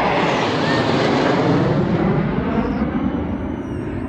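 Loud jet noise from a Thunderbirds F-16 fighter flyover, dropping in pitch as the jet goes past and easing off near the end.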